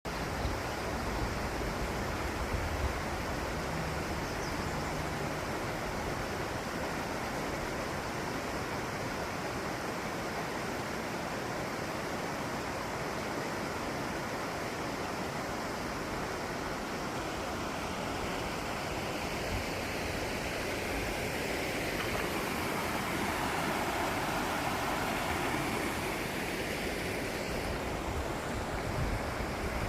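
Steady rush of moving water, an even noise without pitch that swells a little about two-thirds of the way through.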